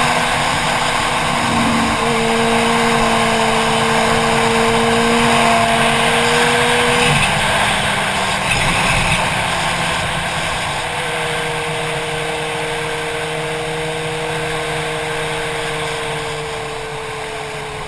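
Motorcycle engine running at a steady road speed under rushing wind noise. The engine note changes about seven seconds in, then slowly falls in pitch and gets quieter toward the end as the bike slows.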